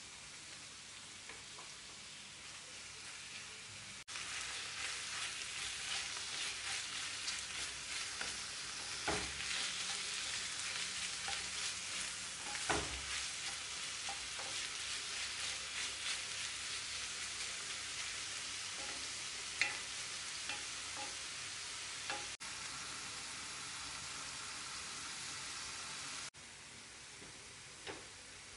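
Onion and meat pieces frying in a cast-iron skillet, a steady sizzle that gets louder about four seconds in, stirred with a wooden spatula, with a couple of sharp knocks.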